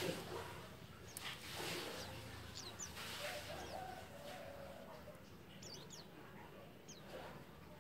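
A group of white-eyes (pleci) giving short, high, falling chirps, scattered through and sometimes several close together, over faint rustling.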